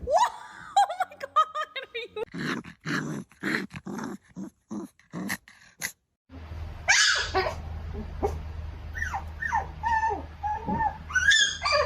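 Puppies whining and yipping in short, high cries, many in quick succession at first. Past the halfway point a steady low hum sits under longer whines that slide in pitch.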